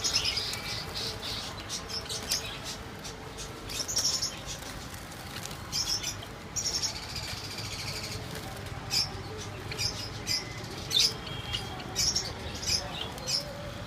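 Parrots giving short, sharp, high chirps at irregular intervals, a dozen or so, with one louder call near the end.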